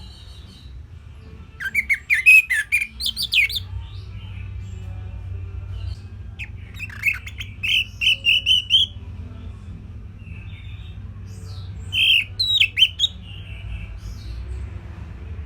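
Orange-headed thrush singing: three bursts of quick, high, varied chirping phrases, about two seconds in, around seven seconds in and about twelve seconds in, over a steady low hum.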